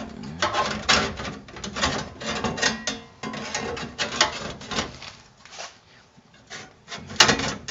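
Loose sheet-metal floor patch panel clattering and scraping against the truck's cab floor as it is worked into place, a run of irregular knocks and rattles with a sharp knock about seven seconds in.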